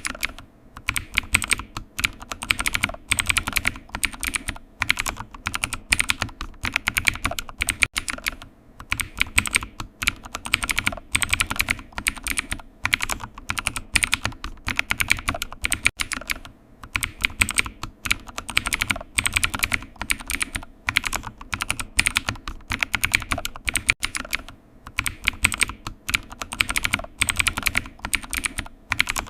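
Typing on a computer keyboard: quick, continuous runs of key clicks broken by brief pauses every few seconds.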